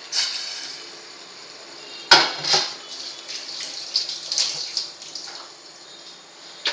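Metal kitchen utensils clattering and clinking against a cooking pot: a clatter at the start, a sharp knock about two seconds in, then a run of lighter clinks and scrapes.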